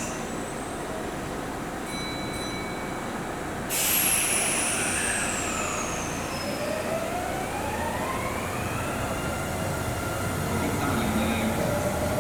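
Kintetsu electric train pulling away, its inverter and traction motors whining. About four seconds in the sound comes on suddenly with a high falling tone. Then several tones rise steadily in pitch for about three seconds as the train accelerates, and level off.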